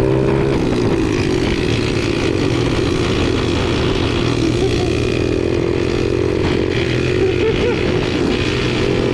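A small four-stroke pit bike engine running at a steady, moderate speed, its pitch wavering only slightly.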